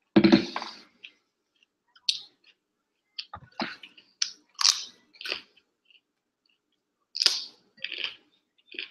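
Close-up mouth sounds of someone chewing broccoli florets: irregular wet crunches every half second or so, with pauses. About a quarter second in there is a louder, deeper bump.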